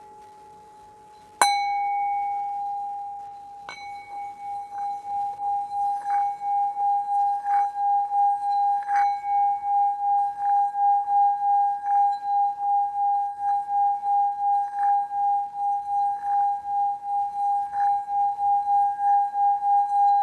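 Singing bowl struck with a mallet, ringing on one clear tone, then struck again and played around the rim so the tone is sustained with a steady wavering pulse of about two to three swells a second that slowly grows louder.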